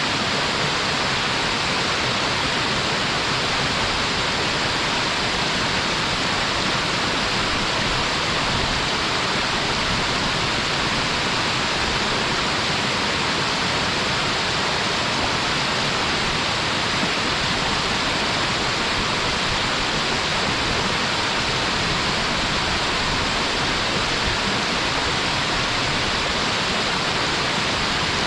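Waterfall: a steady, even rush of falling water that holds unchanged throughout, its hiss strongest in the upper range.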